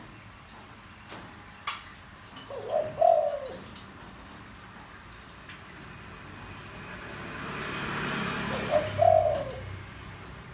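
Spotted dove cooing in a deep tone: two short coo phrases, about three seconds in and again about nine seconds in. A rushing noise swells and fades between them.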